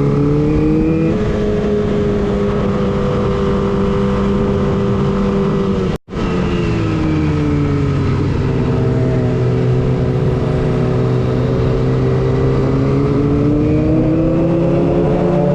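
Kawasaki ZX-25R's 250 cc inline-four engine running at steady high revs while riding. It cuts out for a split second about six seconds in. Its note then drops and climbs slowly again.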